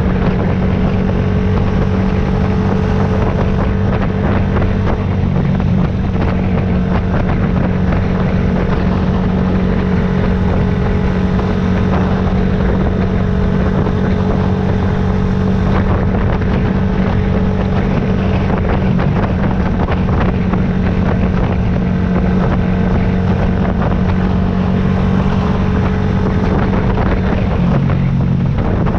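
Yamaha YZF-R125's single-cylinder four-stroke engine running at steady revs while the motorcycle cruises, with wind rushing over the microphone. The engine note dips briefly near the end.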